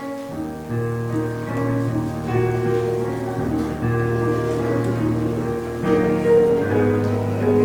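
Piano playing a slow closing postlude of long-held chords over a sustained bass line.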